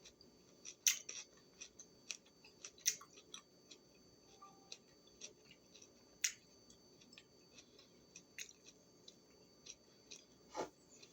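Close-up chewing of a crunchy raw vegetable snack: faint, irregular crisp crunches and clicks from the mouth.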